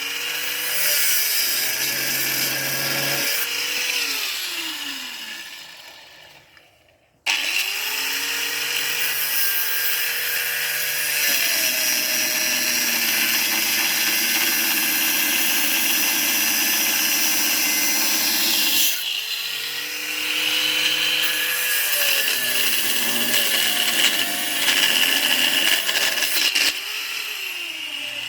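Electric angle grinder motor running with a high whine: it spins down and stops about six seconds in, starts again abruptly about a second later and runs steadily, dips briefly and picks up again past the middle, then starts to wind down near the end.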